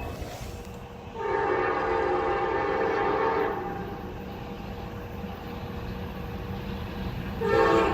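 Locomotive air horn sounding one long blast of about two seconds, then starting a second blast near the end, over a steady low rumble.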